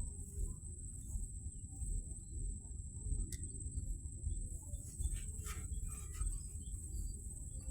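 Steady high-pitched drone of crickets or similar insects over a constant low rumble, with a few faint clicks about a third of the way in and again past the middle.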